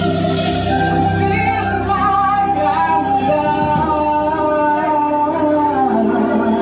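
Live rock band playing, with singing in long held, slowly bending notes over guitar, keyboards and a full low end.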